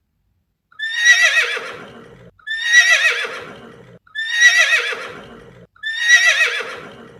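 A horse whinnying four times in a row, the same call repeated about every 1.7 seconds. Each whinny starts high and wavering, then trails off lower.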